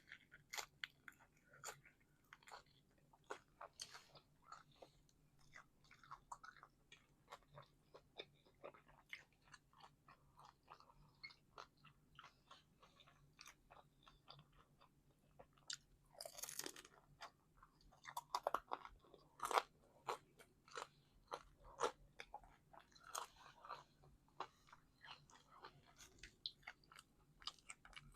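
A person biting into and chewing a homemade calzone, with irregular wet chewing clicks and crunches of the crust. A longer, noisier bite comes about sixteen seconds in.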